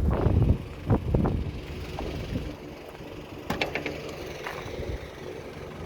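A vehicle engine idling steadily, with wind buffeting the microphone in the first second or so and a short run of clicks past the middle.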